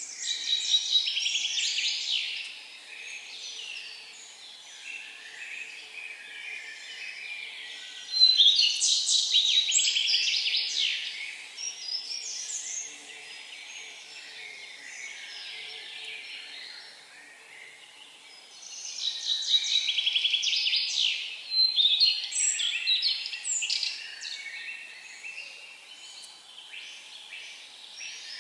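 Songbirds singing in the forest: three loud bursts of rapid, high-pitched song a few seconds long, one at the start, one about eight seconds in and one about nineteen seconds in, with fainter chirping between them.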